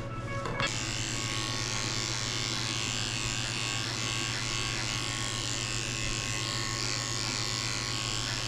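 Electric dog grooming clippers running steadily while shaving a dog's coat, switching on about half a second in.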